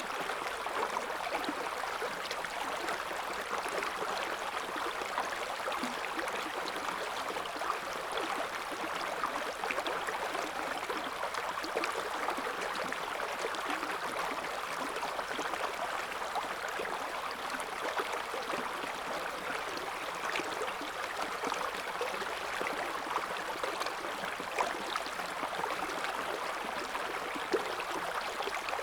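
River water flowing over stones, a steady rushing and babbling with small splashes throughout.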